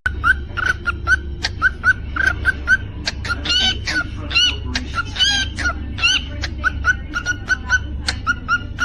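Cockatiel chirping in a steady run of short repeated notes, about three a second, broken in the middle by a few seconds of higher, rising-and-falling whistled song notes.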